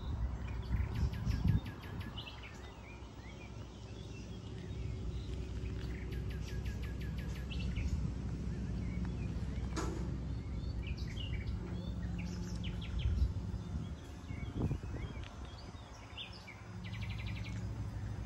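Birds chirping and calling, short calls and quick trills scattered throughout, over a steady low rumble of outdoor background noise.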